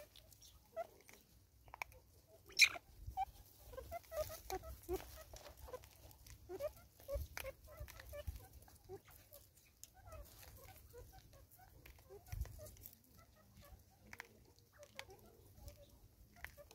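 Short clucking bird calls scattered throughout, fowl-like, from birds around a seed feeder. A sharp click about two and a half seconds in is the loudest sound, with a few fainter clicks between the calls.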